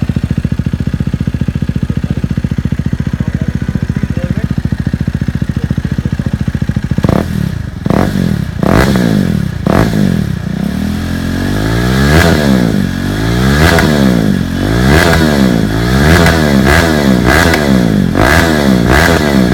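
KTM RC 390's single-cylinder engine through an aftermarket Akrapovic-style exhaust, loud: it idles steadily for about seven seconds, then is blipped a few times and revved up and down repeatedly, roughly every second and a half.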